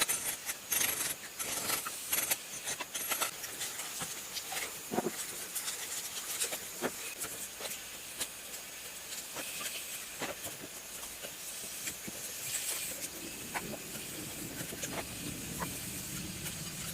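Scattered light clicks and knocks over a steady hiss, from tools and metal parts being handled while a single-phase self-priming water pump with a burnt-out motor coil is dismantled.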